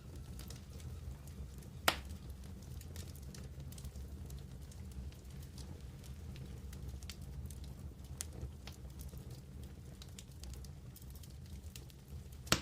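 Wood campfire burning and crackling, with scattered small snaps and a steady low rumble of the flames. One loud sharp pop about two seconds in, and another near the end.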